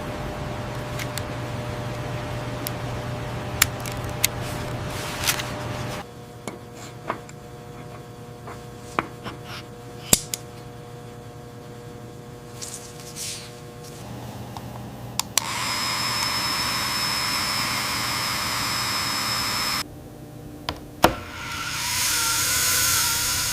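Factory machine and tool sounds in short cut-together segments: a steady hum with scattered sharp clicks and taps, then a loud steady hiss lasting about four seconds, and a whining hiss near the end.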